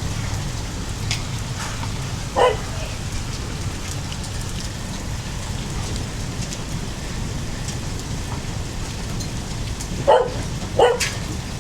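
Heavy rain and hail pelting down, a steady hiss with occasional sharper hits of hailstones. A short call is heard about two seconds in and twice more near the end.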